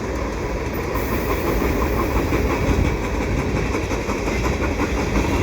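Freight cars of a CN mixed freight train rolling past, a steady rumble of steel wheels on the rails with faint clicking.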